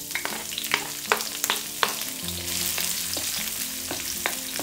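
Chives, onion and dried chilies sizzling in hot oil in a wok, with many sharp clicks and scrapes of a wooden spatula stirring them against the pan.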